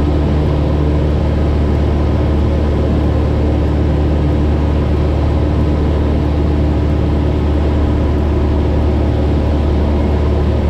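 Cessna 172's piston engine and propeller droning steadily in flight, heard inside the cabin: an even, unbroken hum of low tones over a rush of air noise.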